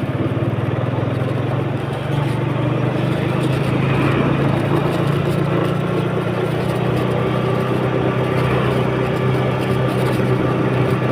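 A vehicle engine running steadily with a low, even hum, as heard while riding along.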